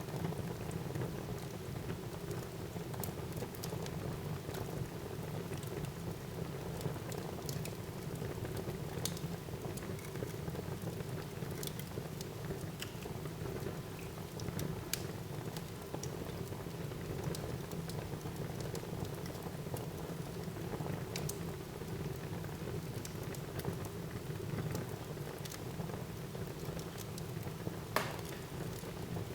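Wood fire burning in a fireplace: a steady low rumble and hiss with scattered crackles and pops, one sharper pop near the end.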